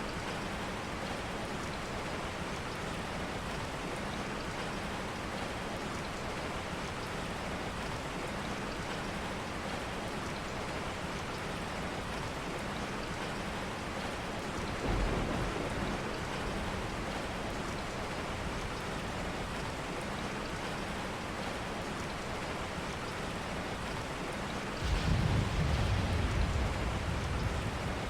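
Steady rain, with a brief swell about halfway through and a low rumble for the last few seconds.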